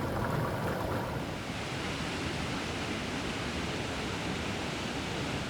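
Steady, even rush of water pouring over falls and rapids.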